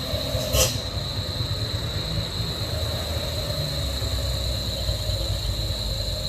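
Heavy vehicle engine running with a low, steady rumble, and a short hiss about half a second in. A steady high whine sounds throughout.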